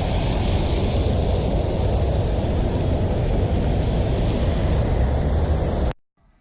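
Riding noise from a Honda CB500F motorcycle: steady wind rush over the microphone over a low rumble, cutting off abruptly near the end.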